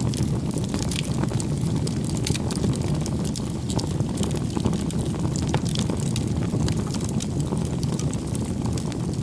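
Wood fire crackling: a steady low rumble of flames with frequent small sharp pops and snaps scattered throughout.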